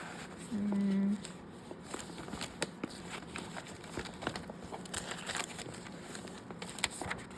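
Old paper recipe cards being handled and flipped through, with light rustles and small taps, and a short hummed "mm" about half a second in.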